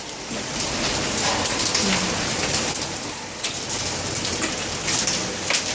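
Hail and heavy rain pelting down in a steady hiss, with a few sharper hailstone hits standing out, about halfway through and near the end.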